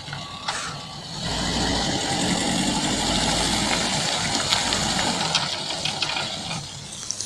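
Motor vehicle engine running, swelling to a steady rumble about a second in and easing off near the end.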